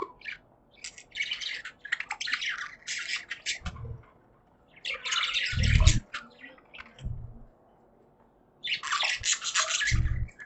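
Budgerigars chattering and chirping in three quick bursts, with a few short low thumps in between.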